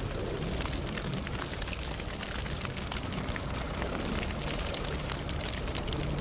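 Campfire burning steadily, with a low rush of flames and many small sharp crackles and pops from the burning wood.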